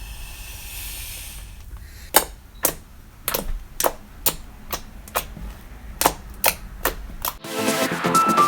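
Fluffy slime being played with: a dozen or so sharp popping clicks, about two a second, as air pockets in the slime pop. A faint hiss comes first.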